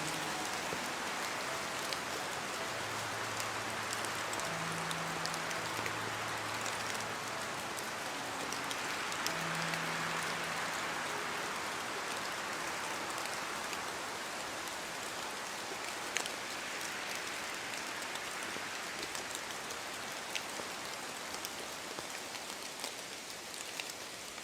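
Steady rain falling on surfaces: an even hiss with scattered drop clicks. A few faint low held tones sound in the first part.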